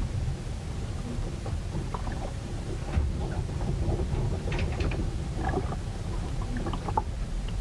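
Ship riding out a storm: a steady low rumble of wind and water against the hull, with scattered creaks and clicks and two sharper knocks, about three seconds in and near the end.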